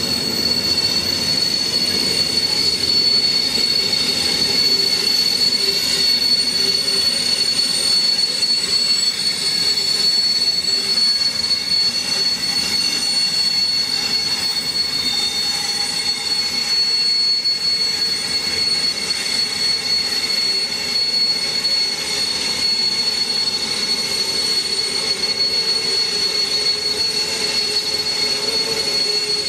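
Intermodal freight train of container and swap-body flat wagons rolling slowly through a station, with a steady high-pitched squeal from the wagons held throughout over the rumble of the wheels.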